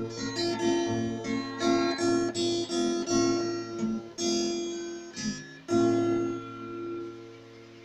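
Acoustic guitar playing the closing bars of a song accompaniment: a run of picked notes, then a final chord about six seconds in that rings and fades away.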